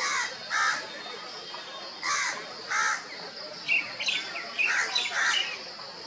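Birds calling: two pairs of harsh two-note calls, one at the start and one about two seconds in, then a run of shorter, varied chirps in the middle.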